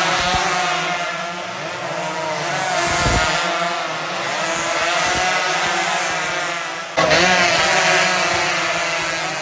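Two-stroke motorcycle engines, Yamaha RX 115 single-cylinders, racing at high revs; their pitch wavers up and down as the riders work the throttles. The sound changes abruptly and gets louder about seven seconds in.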